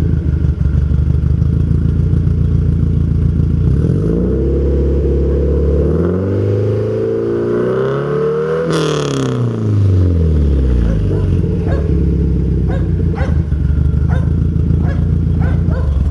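A car engine running steadily, then revving up over about four seconds and dropping back, with a brief hiss at the peak. Afterwards it settles into a steady run with sharp cracks about twice a second.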